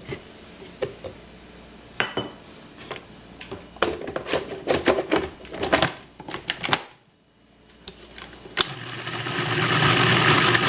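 Knife chopping on a cutting board in irregular strokes, dicing roasted red pepper. After a short pause near the end, a food processor motor runs, growing louder, blending the pepper into the hummus.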